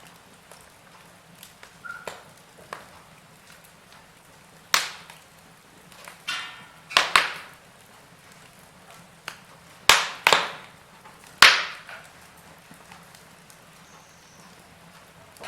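Wood fire crackling in a fireplace: small scattered crackles and about six loud, sharp pops bunched between about five and twelve seconds in, with a brief hiss just before the pops at the middle.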